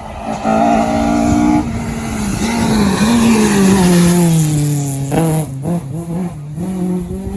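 Rally car engine at high revs coming through a stage: the engine note holds high, falls steadily in pitch through the middle as the car goes by, then climbs again in quick steps after about five seconds as it accelerates away.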